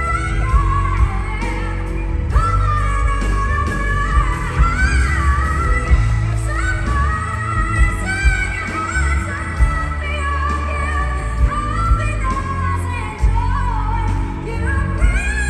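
Female pop singers performing a ballad medley over a band accompaniment with a steady bass and beat.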